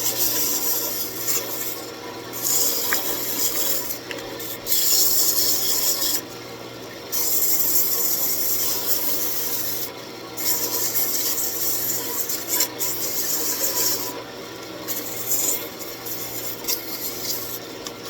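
320-grit sandpaper held against a walnut rosette spinning on a wood lathe, a hiss that comes and goes in passes of a few seconds, over the lathe motor's steady hum. This is the final sanding of the turned face.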